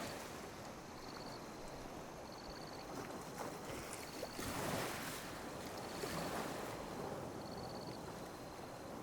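Small sea waves lapping and washing onto a beach, a steady wash that swells loudest about four to five seconds in, with a faint short high chirp repeating every second or so.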